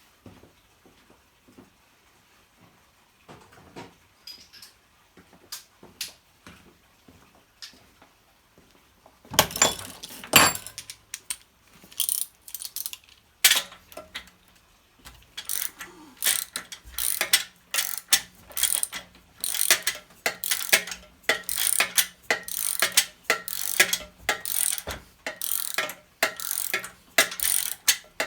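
Ratchet wrench clicking, faint and scattered at first, then loud strokes in a steady rhythm of roughly one and a half a second from about a third of the way in, as the spark plug is worked out of the old Honda generator's engine. A faint steady hum joins about halfway.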